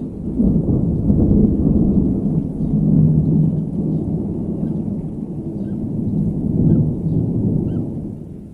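A long rolling thunder rumble, loud and deep, swelling several times before fading out near the end. Faint short chirps, a few per second, sound over it in the second half.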